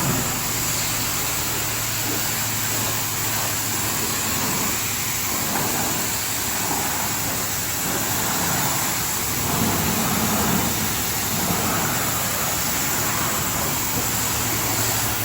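High-pressure spray wand at a self-serve car wash, a steady hiss of water jetting onto a car's bodywork as it is rinsed off.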